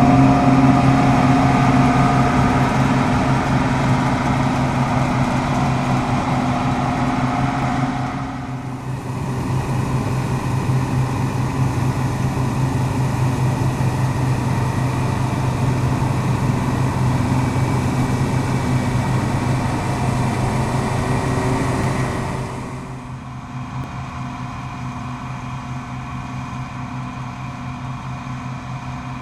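Deutz-Fahr M36.10 combine harvester running steadily while threshing barley, a constant engine drone with the machinery's noise over it. The sound changes abruptly about a third of the way in and again near the end, where it becomes quieter.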